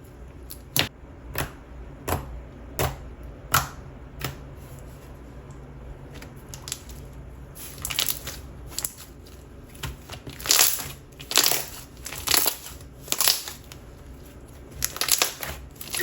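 Thick and glossy slime being handled: a string of sharp clicking pops in the first few seconds, then louder crackling squishes about once a second from around the middle on.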